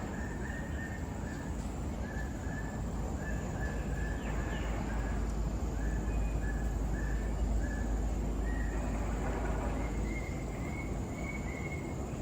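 A bird calling in a series of short notes of one pitch, two or three a second, the notes pitched a little higher near the end, over a steady low rumble.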